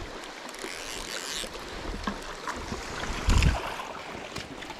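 Steady rush of river water with wind buffeting the microphone, and one low bump a little past three seconds in.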